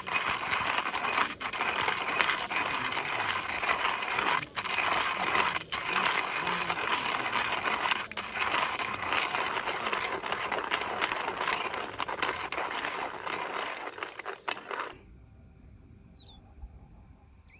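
Food sizzling and crackling in a hot pan, a steady hiss broken by a few short gaps, which cuts off suddenly near the end. After it a bird chirps briefly.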